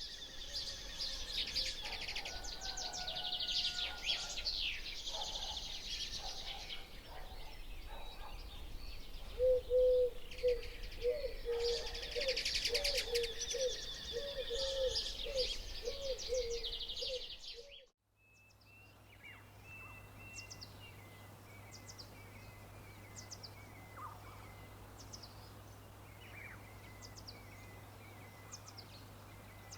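Birds singing in a dense chorus of high chirps, with a low call repeated quickly about fifteen times in the second half. About two thirds of the way in, the sound cuts abruptly to a quieter scene of faint, sparse chirps over a steady low hum.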